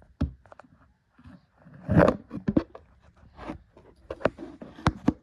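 Toy monster trucks and a cardboard shoebox ramp being handled: a run of irregular knocks, clatters and scrapes, loudest about two seconds in.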